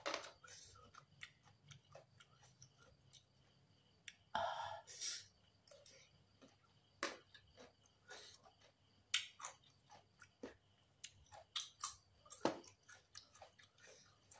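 Mouth chewing a mouthful of green papaya salad: irregular wet clicks and smacks, with a longer, louder burst about four seconds in.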